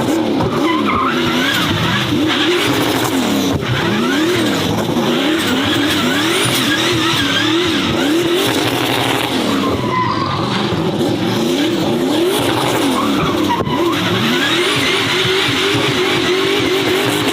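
Racing car engine revving hard, its pitch climbing and dropping about once a second, with tyres skidding and squealing.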